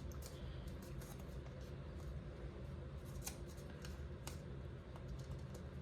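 Faint crinkles and small sharp ticks of folded origami paper being handled and pressed into shape, over a low steady hum; the clearest ticks come about three and four seconds in.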